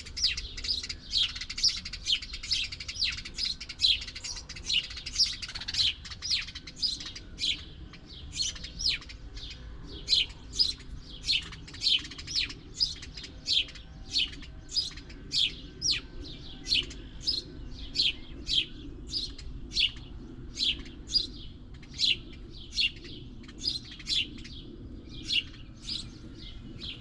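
Small songbird calling a short, sharp chirp over and over, about twice a second, more crowded and overlapping in the first few seconds.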